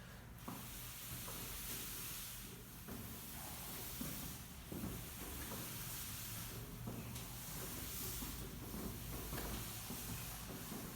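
Steady hiss of room tone and recording noise with a low hum, and a few faint soft rustles.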